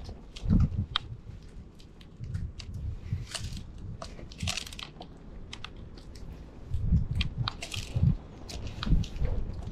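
Sparrows pecking and cracking seed close to the microphone: irregular sharp clicks and crunches, with occasional low thumps.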